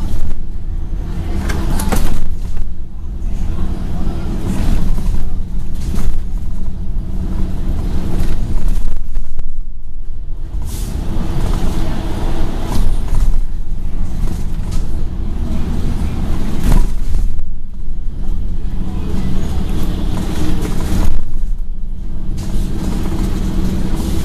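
Scania N113 double-deck bus's diesel engine running under way, heard from inside the bus, with a steady low drone and rattles. The sound thins out briefly a few times, near the middle and towards the end.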